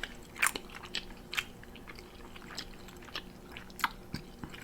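A person chewing food close to the microphone, with irregular short wet mouth clicks and smacks.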